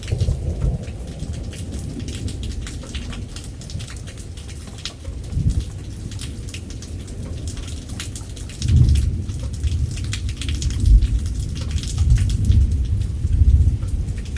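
Rain falling steadily with many small drop ticks, under rolling thunder rumbles that swell briefly near the start and around the middle, then grow louder and longer from about two-thirds of the way through.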